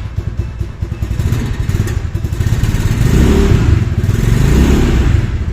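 Motoland Scrambler 250's single-cylinder four-stroke air-cooled engine running just after an electric start, with an even pulsing at idle. It grows louder from about two seconds in as it is revved up.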